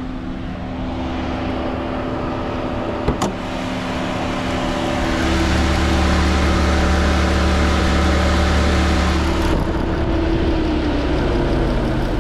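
Car's V6 engine running, heard from inside the car. It gets louder and fuller about five seconds in and eases back about four seconds later. There is a sharp click about three seconds in.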